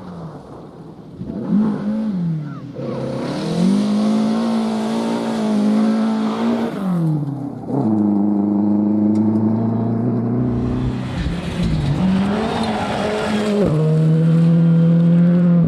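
Rally car engine at high revs, holding each gear and then dropping in pitch at shifts or lifts, twice sharply. It grows louder as the car approaches.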